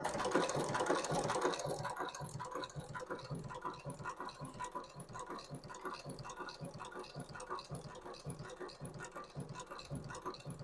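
Long-arm shoe-repair sewing machine with a large shuttle stitching at a slow, even pace, its needle and shuttle mechanism clacking about three times a second, a little louder in the first couple of seconds.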